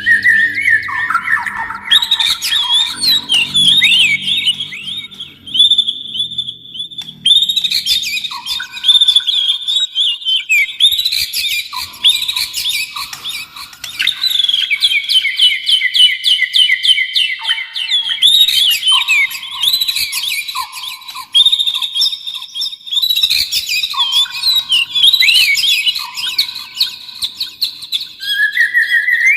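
Oriental magpie-robin (kacer) and white-rumped shama (murai batu) singing without pause: a dense, varied run of loud whistles, trills and chattering phrases, broken now and then by short lower whistled notes. A faint low hum lies under the first few seconds.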